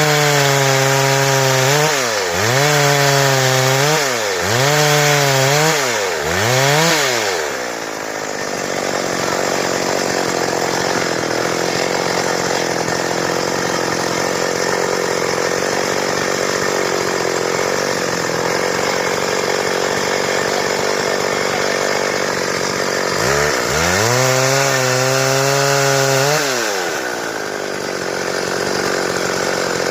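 Stihl chainsaw engine revving up and down in quick repeated throttle blips, then running steadily under load for about fifteen seconds as it cuts through wood, then revving in blips again near the end.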